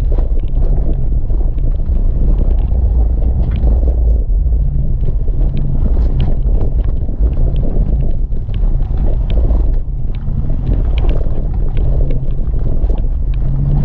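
Jeep WJ Grand Cherokee engine running under load as it climbs a rocky ledge on momentum, with scattered sharp clicks.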